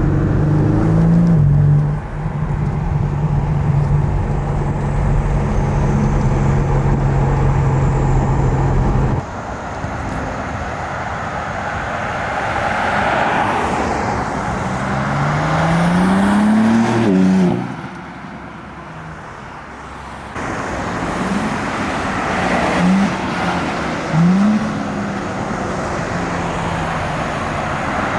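Sports car engine pulling under way: a steady drone for the first several seconds, then revs climbing under acceleration and falling off suddenly as the car shifts or lifts. Two short rising rev blips come near the end.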